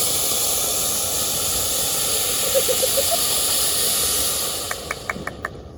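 Steady, loud hissing noise that cuts off sharply near the end, followed by a few short ticks.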